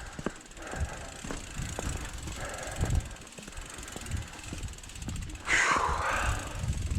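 Ibis Ripley mountain bike being walked over rock: irregular low thumps and knocks from the wheels and frame and from footsteps. A louder rushing hiss comes in about five and a half seconds in and lasts about a second.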